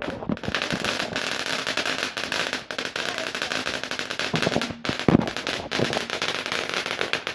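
Garden firework crackling steadily with dense, rapid small pops, a few louder cracks standing out among them.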